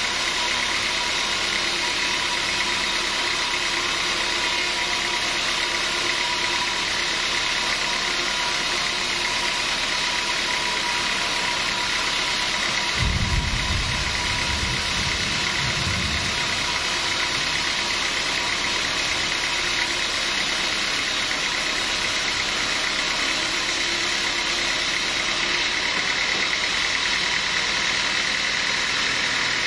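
Sawmill machinery running steadily with an engine-like drone and a steady whine. A deep rumble rises about halfway through and lasts around three seconds.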